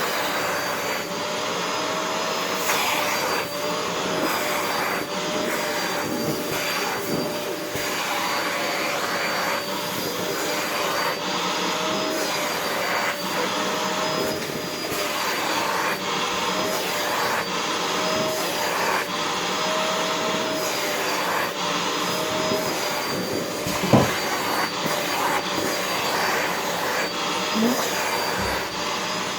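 Vacuum cleaner (hoover) running steadily, its motor whine wavering slightly in pitch, with one sharp knock late on.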